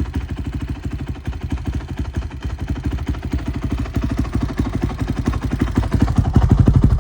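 Honda TRX450ER's single-cylinder four-stroke engine idling steadily after a cold start with the choke off, a fast even chugging, a little louder near the end. It has an HRC kit, which gives it its loud exhaust note.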